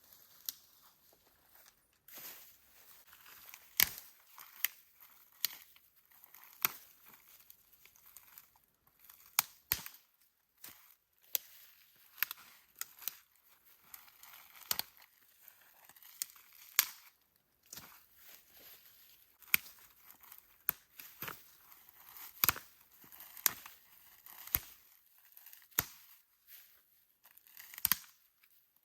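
Irregular sharp snaps and crackles, about one or two a second, with soft rustling and tearing sounds in between.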